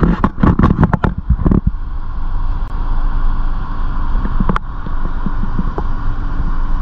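Car engine idling while parked, a steady low rumble with a faint hum. There are brief knocks and handling sounds in the first second and a half, and a single sharp click about four and a half seconds in.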